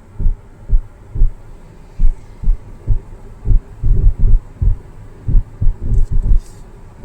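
Irregular low thumps and rumble of wind buffeting a phone microphone in a moving car.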